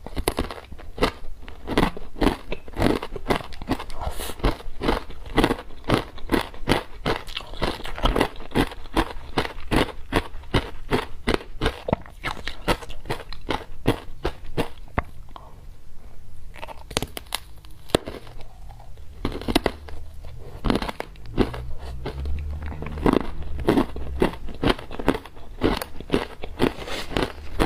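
Close-up crunching of ice being bitten and chewed: a rapid, continuous run of sharp, crackling crunches that thins out briefly about halfway through, then picks up again.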